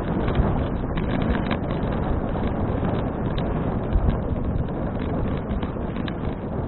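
Wind buffeting the microphone of an action camera on a moving bicycle: a steady low rumble with many small rattling clicks on top.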